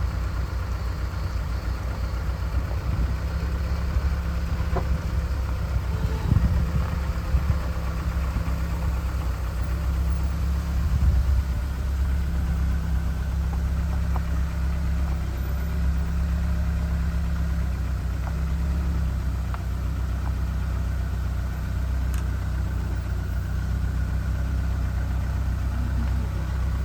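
Lada Niva's engine running steadily at low revs, with a few faint knocks.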